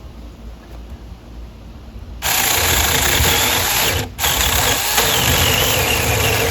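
Saker cordless mini chainsaw starting about two seconds in and cutting through a tree limb, its motor whining high with a pitch that wavers and sags under load. It cuts out briefly about four seconds in, then runs on.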